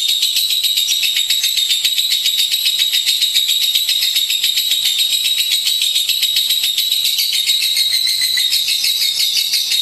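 Lovebird singing a long, unbroken run of very rapid, high-pitched chattering notes.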